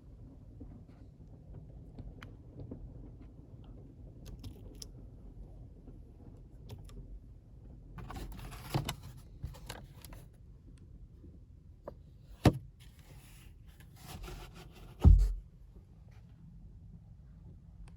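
Wind buffeting the microphone in a steady low rumble, with scattered clicks and rustles, a sharp click partway through and a heavy thump near the end.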